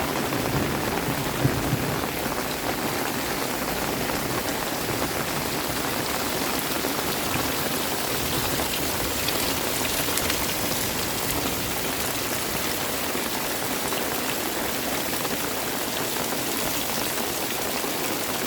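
Steady rain falling on surfaces: a continuous even hiss with scattered individual drop hits.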